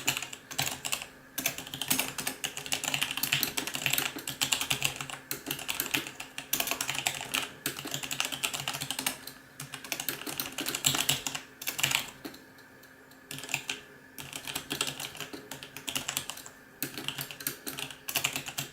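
Fast typing on a Logitech G910 Orion Spectrum mechanical keyboard with Romer-G switches: a dense run of key clicks with a couple of brief pauses.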